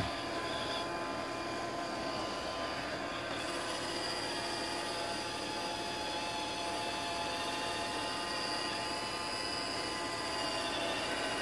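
iRobot Roomba 620 robot vacuum running, its motors and brushes whirring steadily with a whine of several steady tones over a hiss.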